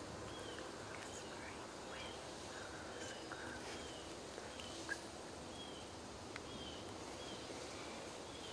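A small bird chirping over and over, short arching chirps about once a second, faint over a soft steady hiss of outdoor ambience.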